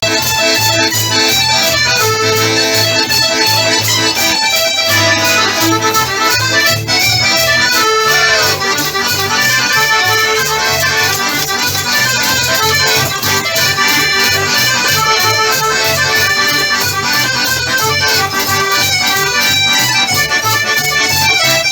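Live band music: an instrumental stretch with no singing, several melody lines over a steady, quick beat.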